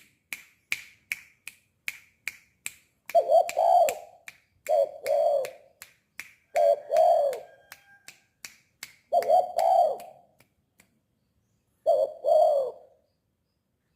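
Spotted dove cooing: five short two-note coos a second or two apart, the last about two-thirds of the way through. A run of sharp clicks comes between them, quickest in the first three seconds.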